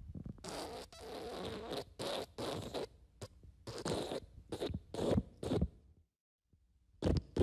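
A fart sound effect made of a rapid series of short, raspy bursts, about two a second, lasting about six seconds. After a brief gap of silence, another fart effect begins near the end.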